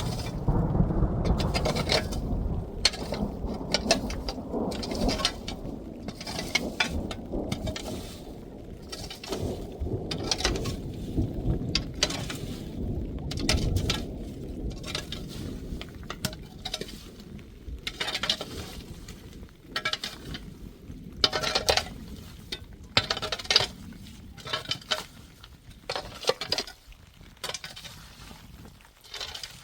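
Hail and rain pelting down, with many sharp irregular clicks and patters on hard surfaces. A low rumbling roar of wind and storm is strong at first and dies away after about halfway, leaving the scattered clicks.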